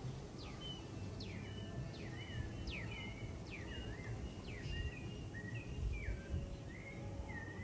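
Birds calling outdoors: a repeated series of sharp whistles, each sliding down in pitch, about one a second, with short level chirps between them, over a steady low rumble of ambient noise.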